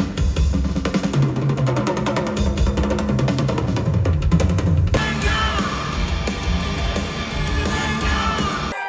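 Heavy rock music with loud, busy drumming. About five seconds in the drums thin out under sustained, wavering higher notes, and the music cuts off abruptly near the end.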